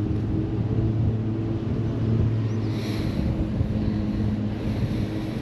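Steady low machinery hum that holds one pitch, with a brief soft hiss about three seconds in.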